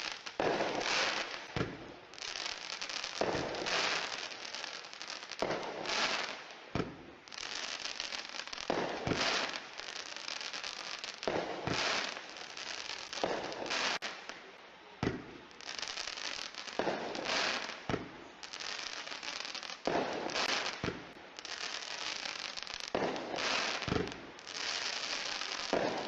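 A 25-second consumer firework cake, RGS 'Picture Perfect', firing its shots. Each launch thump comes every second or two and is followed by crackling bursts.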